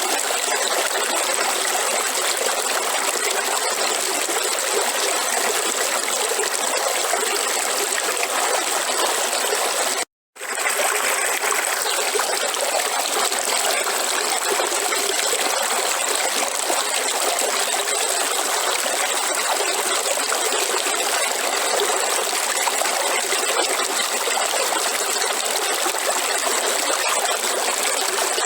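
Waterfall water rushing in a steady, even hiss. About ten seconds in it cuts out to silence for a fraction of a second, then resumes unchanged.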